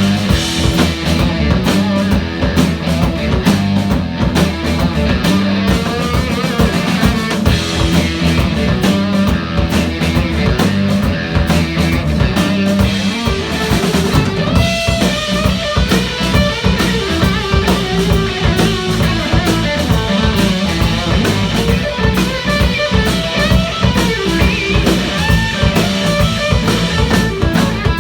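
Rock band playing live with guitar and drum kit, an instrumental passage without singing.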